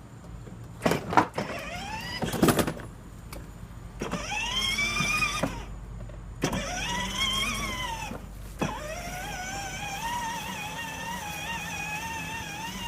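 A small electric motor whining: a few knocks, then it speeds up and slows down twice, then runs on at a steady, slightly wavering pitch.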